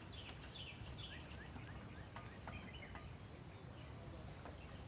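A small bird giving a quick series of short, falling chirps, about four a second, during the first couple of seconds, with a few fainter calls after, over faint steady background noise.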